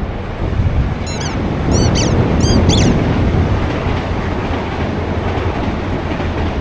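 Passing train on the Londonderry–Coleraine coastal line, a Northern Ireland Railways diesel multiple unit, with a steady rumble that swells about a second in and holds. Four or five short high chirps sound between about one and three seconds in.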